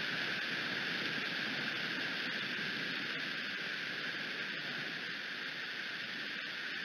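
Steady hiss of rain falling, picked up by an outdoor nest camera's microphone, with a few faint ticks.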